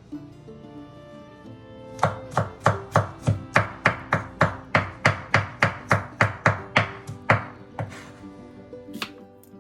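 Kitchen knife chopping quickly on a cutting board, about three strokes a second for roughly six seconds starting about two seconds in, then slowing to a few scattered taps near the end.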